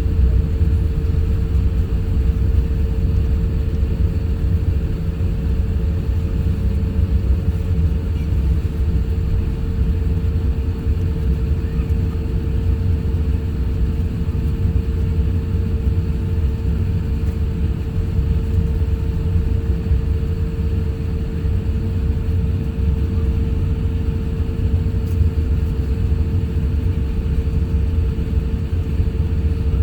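Airbus A350-1000 cabin noise: a steady deep rumble of engines and airflow with a constant hum over it.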